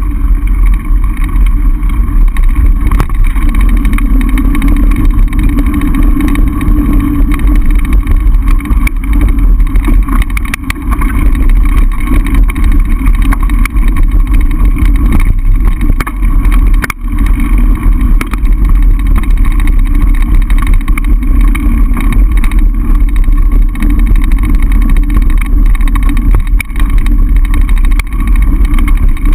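Mountain bike riding downhill on a trail: loud wind buffeting the camera microphone over the rumble and rattle of the bike, with many small jolts throughout.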